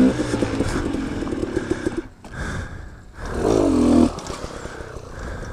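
KTM 250 XC-W two-stroke dirt bike engine under throttle, easing off about two seconds in, then a short rising rev that is cut off about four seconds in, after which it runs more quietly.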